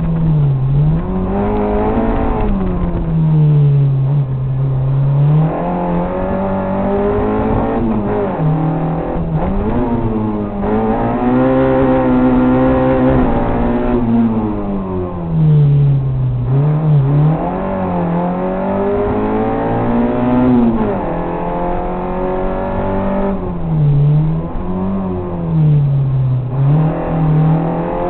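Autobianchi A112's small four-cylinder engine being driven hard in competition, heard from inside the cabin. The revs climb and fall again and again through gear changes and bends.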